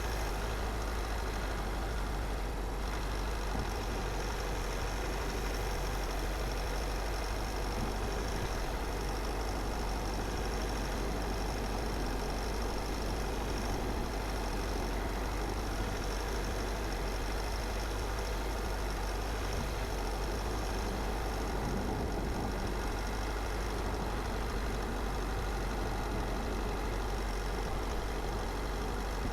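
A car driving steadily along a road: a constant low rumble of engine and tyre noise with no changes in speed or pitch.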